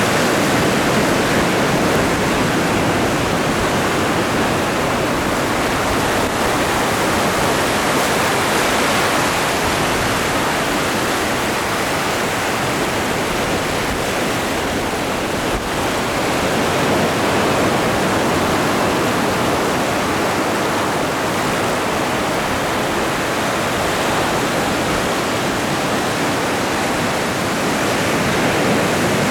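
Ocean waves breaking and washing on the shore: a continuous rushing surf that eases a little midway and swells again near the end.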